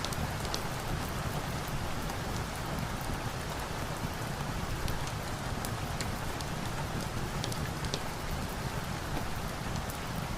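Steady, dense rainfall with a deep low rumble, and scattered sharp high ticks dotted through it.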